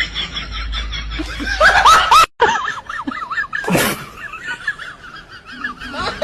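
High-pitched laughing in quick, repeated bursts, cut off abruptly about two seconds in and then resuming, with a short loud burst near the middle.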